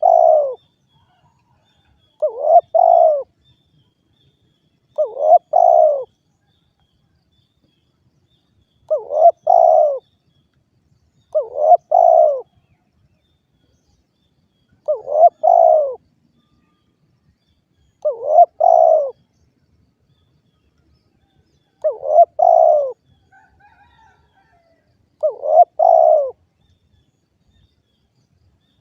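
Spotted dove (derkuku) cooing, repeating the same short phrase about every three seconds, each phrase about a second long.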